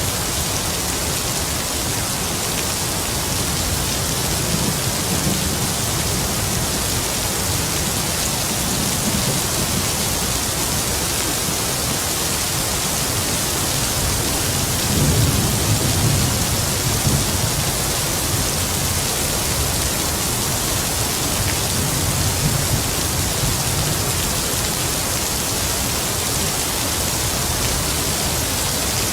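Heavy rain falling in a steady hiss, with distant thunder rumbling low underneath in slow swells. The biggest roll comes about halfway through.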